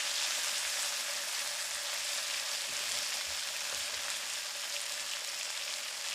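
Chicken drumsticks with ginger, onion and garlic sautéing in a frying pan, a steady sizzling hiss.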